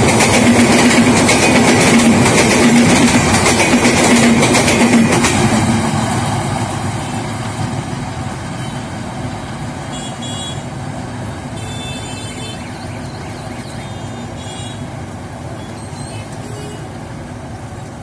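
Benapole Express passenger train passing at speed: a loud rumble of coaches with a steady hum. It drops off sharply about five seconds in as the last coach goes by, then fades slowly as the train runs away into the distance.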